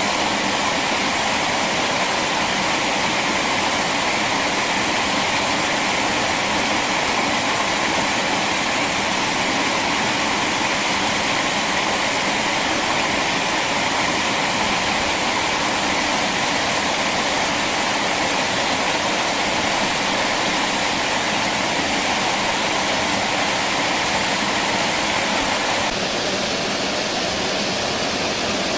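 Steady rushing of flowing water, an even unbroken hiss, its tone changing slightly near the end.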